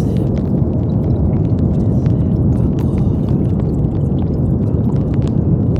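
Brown noise: a steady, deep rushing hiss with most of its weight in the low end and little treble.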